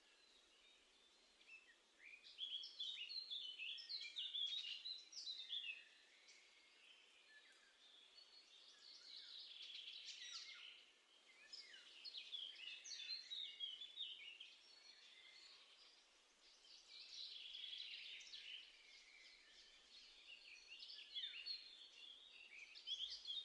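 Small songbirds singing and twittering in outdoor air, in busy phrases of two to four seconds with short quiet gaps between them. The phrases start about one and a half seconds in, then recur about every four seconds.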